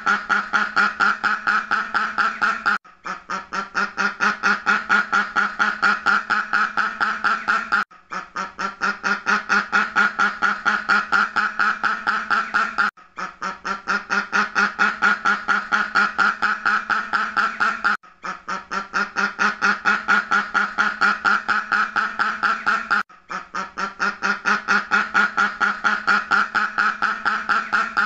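Duck quacking in a rapid, even run of about four to five quacks a second. The run breaks off briefly about every five seconds and starts again, a short loop repeated.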